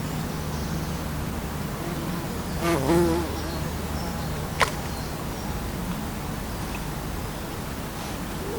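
A flying insect buzzing close to the microphone over a steady low hum. The buzz wavers in pitch and swells loudest about three seconds in as it passes, and a single sharp click follows a second and a half later.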